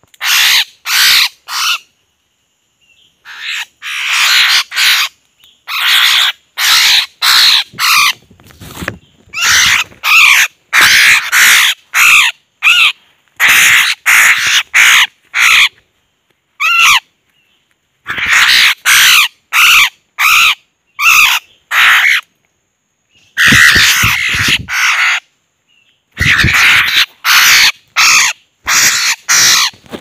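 A caught bird, held in the hand, giving loud, harsh, raspy calls over and over in quick runs of short calls, broken by a few brief pauses. These read as distress calls from a bird being handled.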